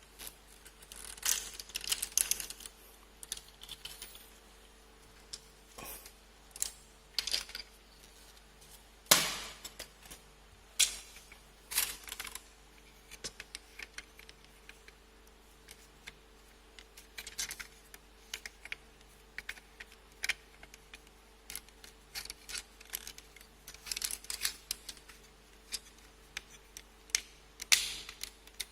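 Plastic action-figure kit parts being handled and pressed together: irregular small clicks and clacks, a few louder snaps among them.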